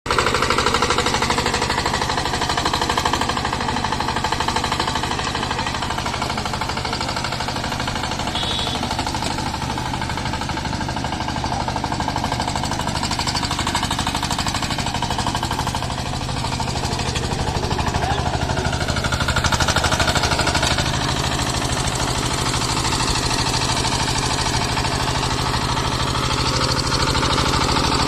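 6 hp diesel engine of a mini tractor rotavator running steadily, with a rapid, even knocking beat.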